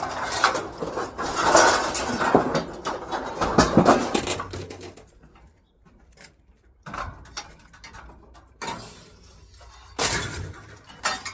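Scrap metal clattering and clanking as it is handled for about five seconds, then a few separate knocks.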